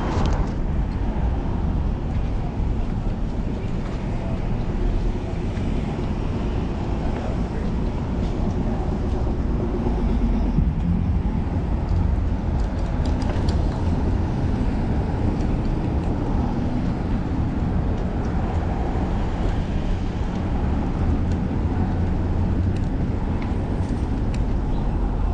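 Street traffic and road noise heard from a moving bicycle, with a heavy low rumble.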